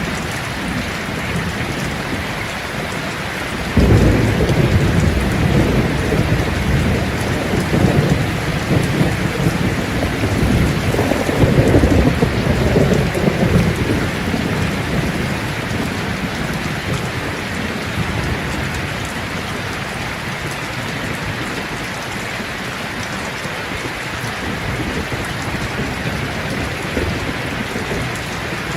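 Steady heavy rain. About four seconds in, a roll of thunder cuts in suddenly and rumbles on in several surges before fading away about halfway through.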